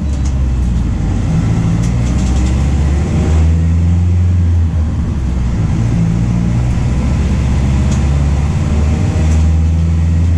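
MAN D0834 four-cylinder diesel engine of a VW 17.230 OD bus running under way. Its steady note shifts pitch several times, stepping up and down.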